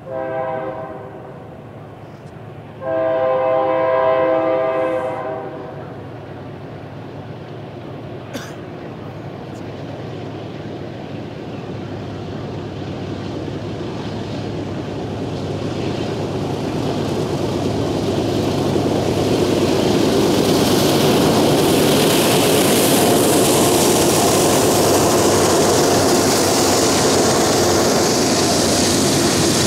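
A freight train's locomotive horn sounds two blasts, a short one and then a longer, louder one about three seconds in, as the train approaches. Then the rumble of the train and the clatter of hopper cars grow steadily, loudest in the second half as the cars roll past.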